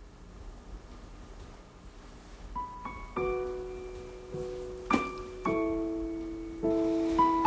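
Slow solo piano music: a quiet start, then single notes and soft chords entering one after another about two and a half seconds in.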